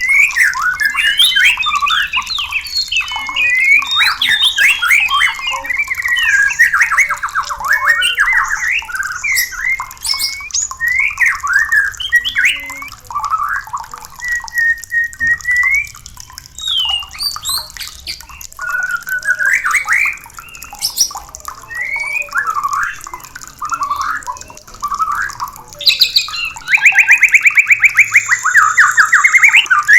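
White-rumped shama singing: a fast, varied, unbroken run of whistles, trills and harsh chattering notes, ending near the end in a loud, rapid rattling series.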